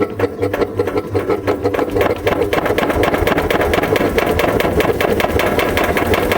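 Sanyo top-load fully automatic washing machine in spin mode, running with a loud, rapid, repetitive mechanical rattle over a hum. The rhythm quickens and fills out about two seconds in as the spin speeds up. This is the abnormal spin-mode noise that marks a fault in the machine.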